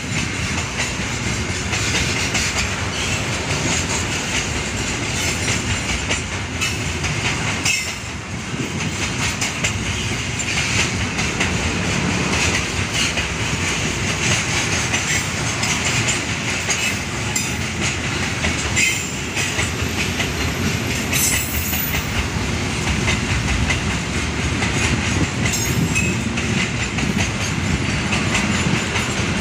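Container flat wagons of a long freight train rolling past at steady speed, their wheels clattering over the rail joints, with a few sharper clanks.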